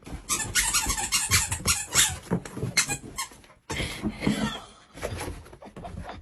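Rapid runs of sharp squeaks, with a sudden break about three and a half seconds in and quieter squeaking after it.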